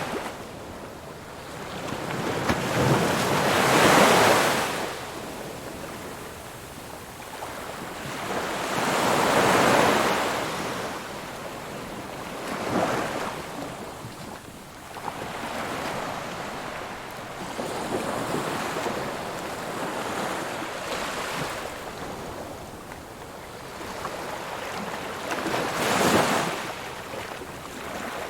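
Ocean waves breaking and washing up a beach, each wave a swelling rush of surf that peaks and fades, several waves a few seconds apart, with the strongest breaks about four seconds in and near the end.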